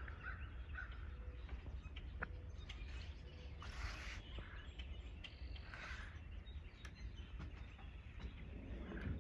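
Faint bird calls and short chirps scattered over a steady low rumble.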